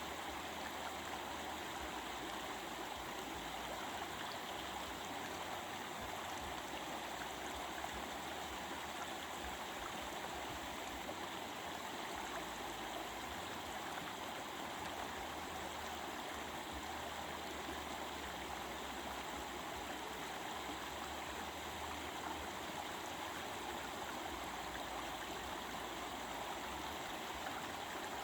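Stream of water flowing and babbling steadily over rocks.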